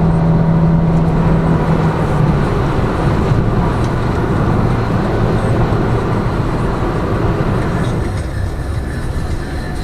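Lada Vesta Cross driving along the road, heard from inside the cabin: steady engine and tyre noise, with a low steady drone that stops about two seconds in.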